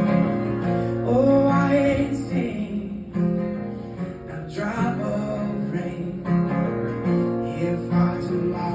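Acoustic guitar playing chords of a slow original song.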